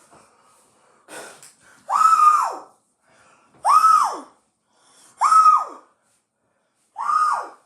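A boy's wordless pained cries from the burning heat of raw ginger in his mouth: four short wails about a second and a half apart, each rising then dropping steeply in pitch, with a breath between.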